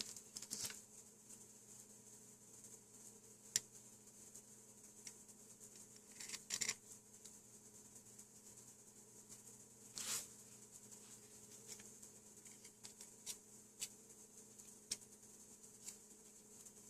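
Sparse small clicks and brief scraping rustles of hand work with small tools and parts, over a faint steady hum.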